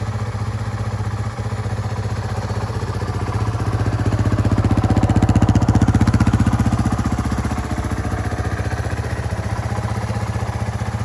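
1992 Yamaha Serow 225's single-cylinder four-stroke engine idling with an even, rapid beat, the revs rising a little in the middle and settling back.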